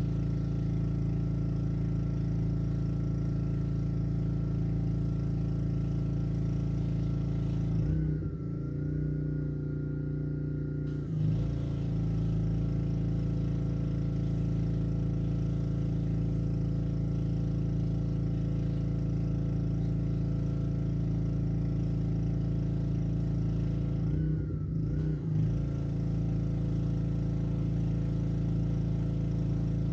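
Black Max pressure washer's Honda single-cylinder four-stroke engine running steadily under load. Its note shifts briefly about eight seconds in, for about three seconds, and again near the end.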